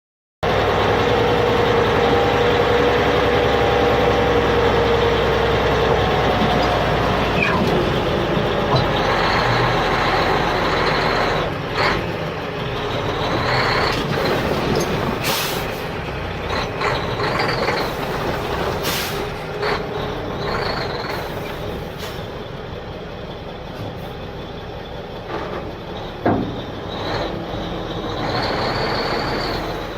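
A vehicle's motor running. For the first several seconds there is a steady drone that glides gently in pitch, then an uneven running sound with scattered knocks and short high whines.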